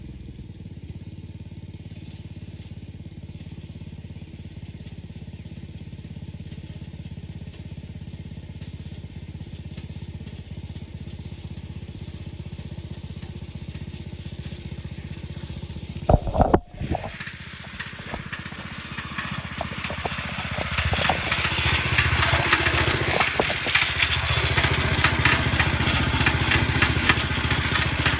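Small single-cylinder engine of a garden tractor, a Predator 212 in a 1970 Sears 10XL, idling steadily for about sixteen seconds. A loud knock follows, then the engine runs louder and rougher, building up over a few seconds and staying loud.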